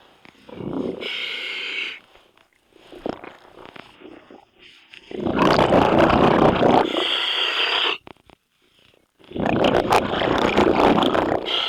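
Scuba diver breathing through a regulator underwater: a long rumbling gush of exhaled bubbles followed by the hiss of the regulator, repeating about every four seconds.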